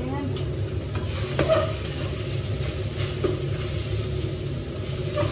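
Eggplant sautéing in a stainless steel pot, sizzling steadily as it is stirred, with a few knocks of the utensil against the pot over a steady low hum.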